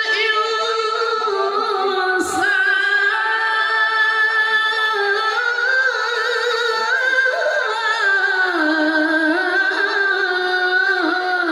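A male qari reciting the Quran in a high voice, in the melodic tilawah style: long held, ornamented notes that waver and turn. The pitch steps lower about three-quarters of the way through.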